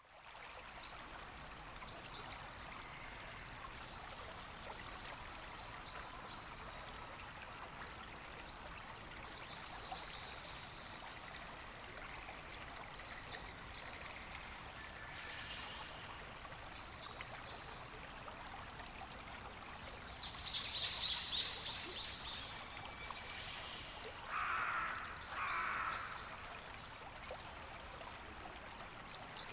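Coastal spring ambience: a steady wash of water with scattered high bird calls, then a loud flurry of high calls about two-thirds of the way through, followed by two lower calls.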